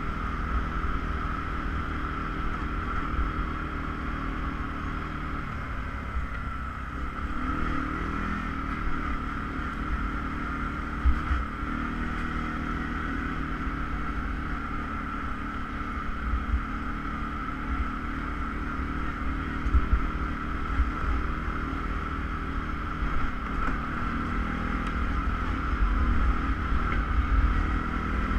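ATV engine running steadily under way, with a low rumble and a steady high whine, and a sharp knock about eleven seconds in and another near twenty seconds.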